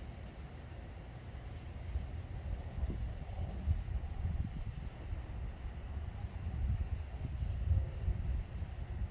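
A steady, high-pitched chorus of night insects, crickets or katydids, trilling without a break. Under it runs a low, uneven rumble.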